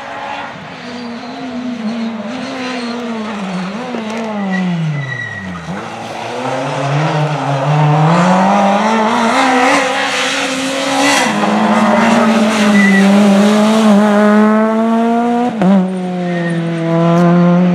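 A rally car's engine comes through a stage. About five seconds in the revs drop right down as the car slows. It then accelerates hard, the engine note climbing and growing louder as it draws close, with quick gear changes later on.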